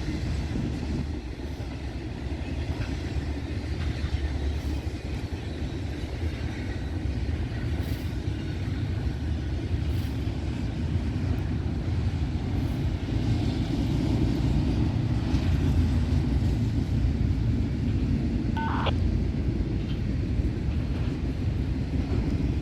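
Long freight train rolling past at steady speed, its cars rumbling and clicking over the rails. A brief high-pitched tone sounds about three quarters of the way through.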